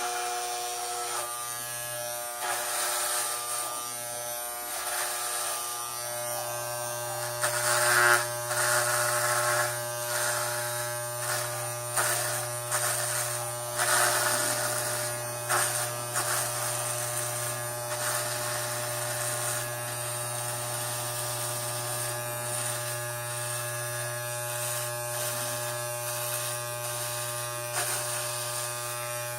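Electric hair clippers buzzing steadily while shaving an undercut, with louder, rougher spells in the middle stretch as the blade cuts through the hair.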